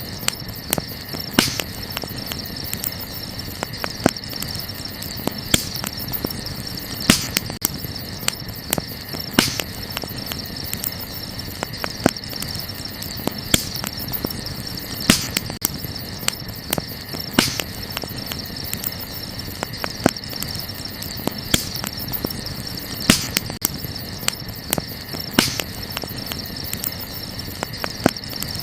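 Wood fire crackling, with sharp pops every second or two, over a steady chorus of crickets.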